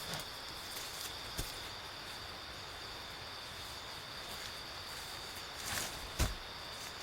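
A steady, high insect drone from a chorus of forest insects, with a couple of brief knocks or steps, one about a second in and one near the end.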